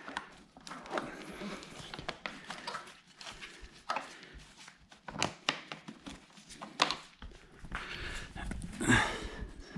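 Hands working wiring and parts loose on a motorcycle: scattered light clicks, knocks and rustling, with a louder scrape or rustle about nine seconds in.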